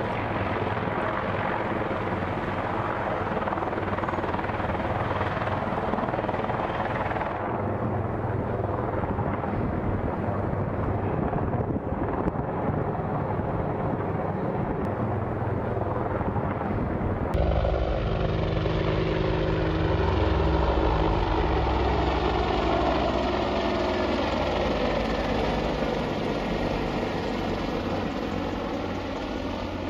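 Helicopter running, a steady din of rotor and turbine engine noise. Just past halfway the sound cuts abruptly to a different recording with a steadier low engine hum.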